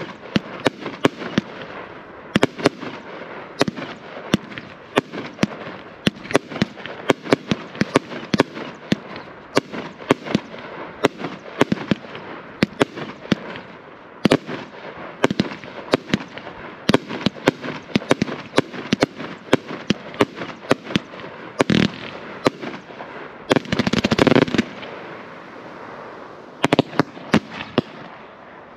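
Consumer firework cake firing: a rapid, continuous string of sharp shots and aerial bursts. A brief, denser barrage about three-quarters of the way through is followed by a short lull before the bangs resume.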